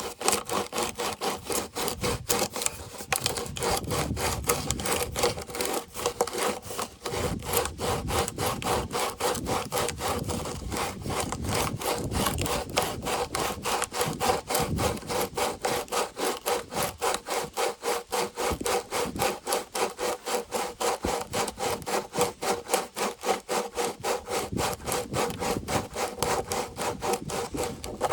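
Coarse 36-grit sandpaper rubbed by hand back and forth around the plastic threads of a water tank's filler neck, in quick, even scraping strokes. The oversized threads are being sanded down so the cap will seat.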